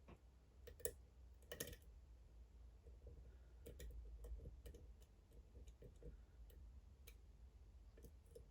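Faint, scattered clicks and ticks of a lock pick working the pins of a Dom IX Twinstar cylinder, a lock with two rows of pins, with two sharper clicks in the first two seconds.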